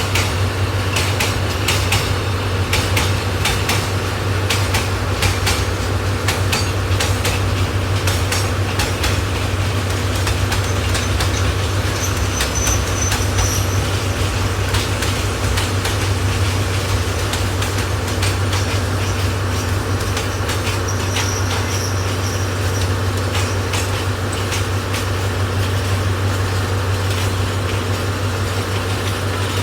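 D10H diesel locomotive running with a steady low drone, while a train rolls in with the clicking of wheels over rail joints. The clicks are thick in the first half and thin out later, and two brief high squeals of wheel or brake are heard.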